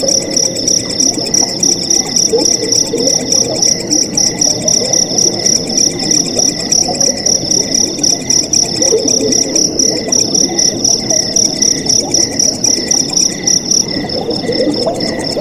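Crickets chirping in a fast, steady trill over the babble of flowing water, with a second, slower pulsing call underneath. About 14 s in the high trill changes pitch slightly.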